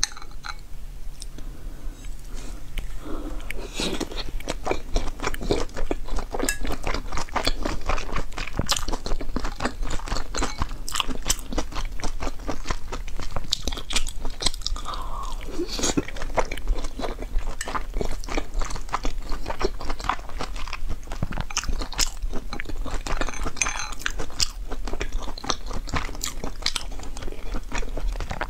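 Close-miked eating of soup dumplings: biting into and chewing the soft dumplings, with many small mouth clicks and smacks throughout.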